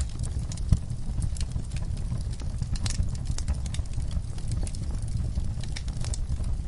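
Wood fire burning in a fireplace: a steady low rumble of flames with frequent irregular crackles and pops from the burning logs, one sharper crack just under a second in.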